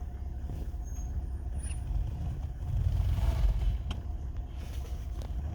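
Vehicle engine running with a steady low rumble that swells for about a second near the middle, with a few faint clicks.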